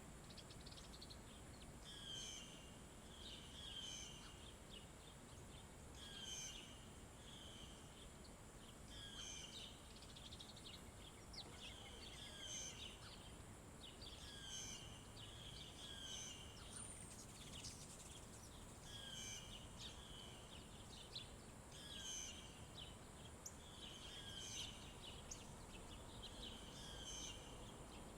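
A songbird repeating the same short song phrase about every two to three seconds, over a faint outdoor background.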